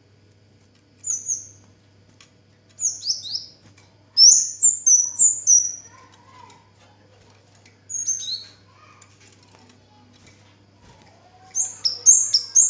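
Kemade (cigen) songbird calling in five bouts of quick, high chirps, each note sweeping downward. The longest and loudest run comes about four to six seconds in. A faint steady low hum sits underneath.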